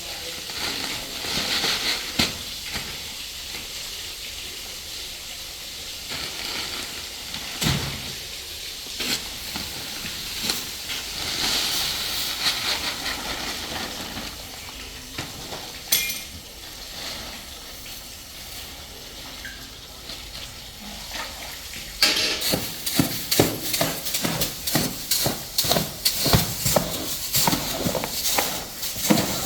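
Factory work noise: a steady hiss with scattered knocks and clanks, then a fast run of sharp clattering knocks for the last several seconds.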